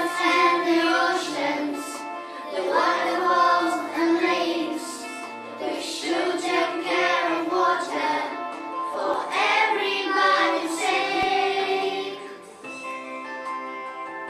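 A song sung by children's voices over instrumental backing, in several phrases; the singing stops near the end and the accompaniment carries on alone.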